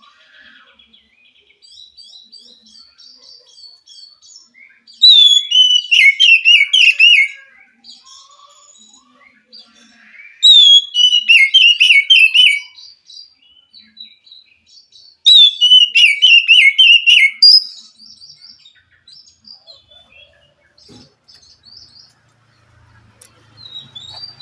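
Oriental magpie-robin (kacer) singing: three loud phrases, each opening with a falling whistle and running on in a rapid warble, with softer twittering between them.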